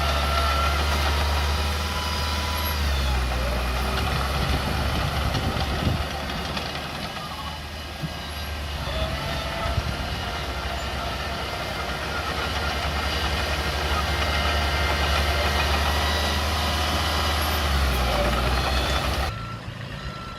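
Small Komatsu bulldozer's diesel engine running at work, a loud, steady low rumble that rises and falls slightly as it pushes. Near the end the sound drops suddenly to a quieter level.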